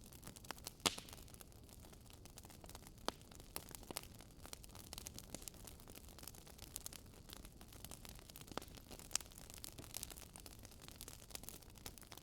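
Wood fire burning with irregular crackles and small pops over a low hiss, the sharpest pop about a second in.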